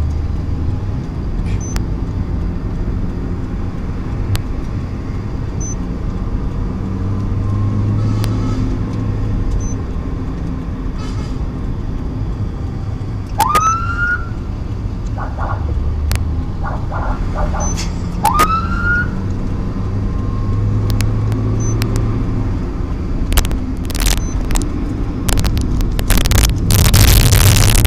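Vehicle engine and road noise from a moving escort, with a police motorcycle siren giving two short rising whoops about five seconds apart and a few brief tone blips between them. Loud crackling bursts come in near the end.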